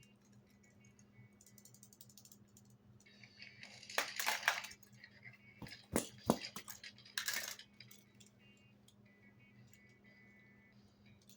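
Toy construction vehicles clattering and clinking against each other as they are handled in a box, in three bursts of rattling about three to five, six, and seven seconds in.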